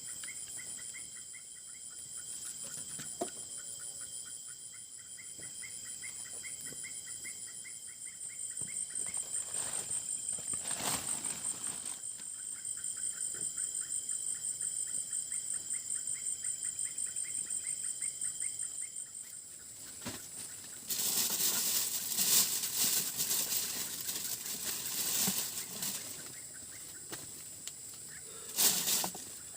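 Night insects trilling in a steady high-pitched chorus, with a fast pulsing call for the first several seconds. From about two-thirds of the way in come several seconds of close rustling and handling noises.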